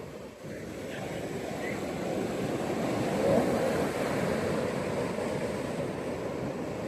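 Ocean surf washing onto a beach in a steady wash that dips briefly just after the start and swells to its loudest about halfway through.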